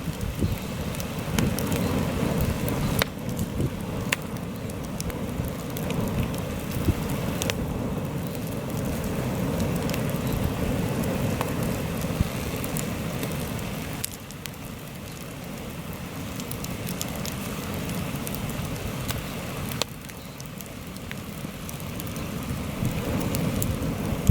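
Heavy wind gusting and buffeting the microphone over a burning campfire, with sharp crackles and pops of the wood scattered through it. The gusts ease for a moment about halfway through and again later on.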